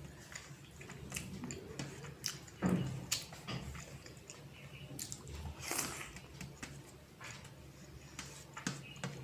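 Close-up eating sounds: chewing, with small wet smacks and clicks, as someone eats rice with moong dal and rui fish curry. The mouth noises come irregularly, a little louder about a third of the way in and again past the middle.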